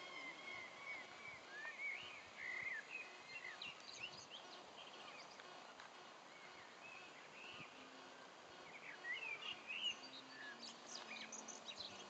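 Wild birds singing faintly, short chirps and trills coming and going over a steady outdoor hiss, busier about two seconds in and again near the end.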